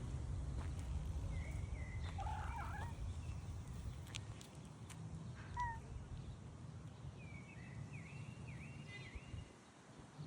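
A few short, high animal calls and chirps over a steady low outdoor rumble, with a quick run of repeated high notes near the end.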